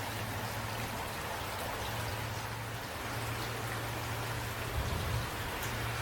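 Steady rain falling, an even hiss of many drops, with a brief low rumble swelling about five seconds in.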